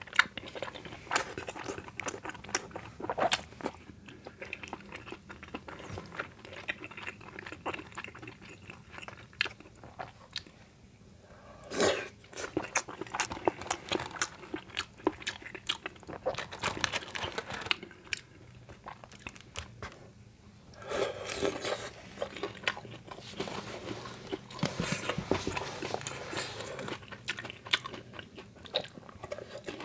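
Close-miked eating sounds: chewing, biting and crunching of chewy rice cakes in spicy sauce and crisp fried snacks, with many small wet clicks and one louder crunch about twelve seconds in.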